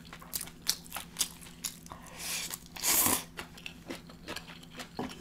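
Close-miked eating: crunching and chewing a mouthful of shredded green mango salad, with many small wet mouth clicks. About three seconds in there is a louder, hissing burst of mouth noise.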